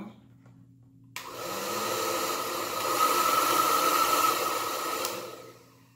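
Ion Ionic Conditioning 1875-watt hair dryer switched on about a second in, its fan running with a steady whine. It gets louder about three seconds in as it steps from low to high, then is switched off and winds down near the end.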